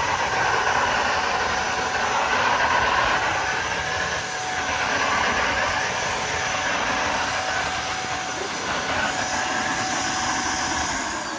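Shark DuoClean vacuum cleaner running with a steady whooshing motor noise and a thin whine. Near the end it switches off and the motor's pitch falls as it winds down.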